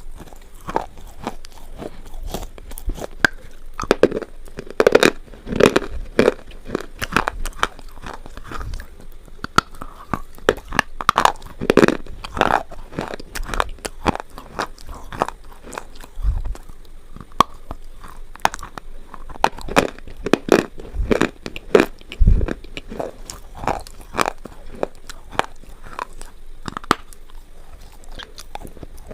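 A person biting and chewing hard, brittle things, a steady run of sharp crunches and crackles several times a second, with two dull low thumps in the second half.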